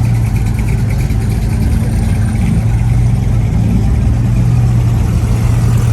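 A car engine running at a steady idle, a low, even drone that does not change pitch.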